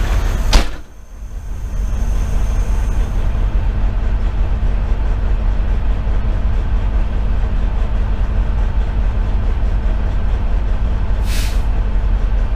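A fire engine's Detroit Series 60 diesel idles with a steady low hum. A sharp knock comes about half a second in, and a short hiss near the end.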